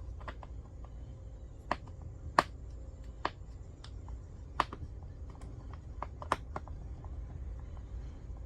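Scattered sharp clicks and knocks of parts and tools being handled, about a dozen spread irregularly, the loudest a little over two seconds in, over a low steady rumble.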